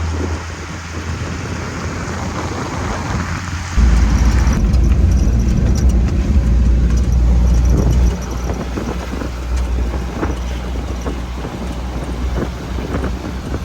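Suzuki pickup on the move: steady engine and road noise, with a much louder low rumble for about four seconds in the middle.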